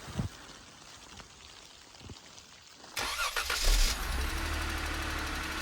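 A car engine starting about halfway through, catching with a brief low surge and then settling into a steady idle; the first half is quiet apart from a few faint soft thumps.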